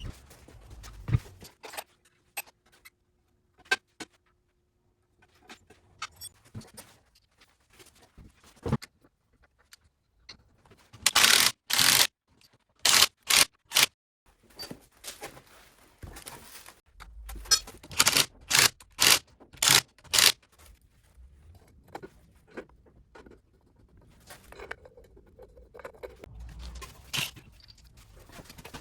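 Workshop work on a car: scraping of metal parts and tools with scattered sharp knocks, and several short loud bursts in two clusters partway through.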